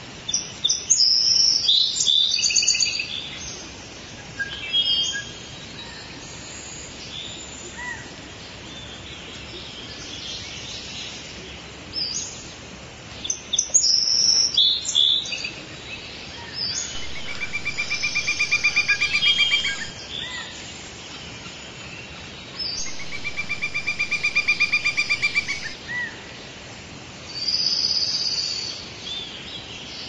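Wild birds calling: a flurry of sharp, high chirps and whistles, then several long rattling trills of two to three seconds each.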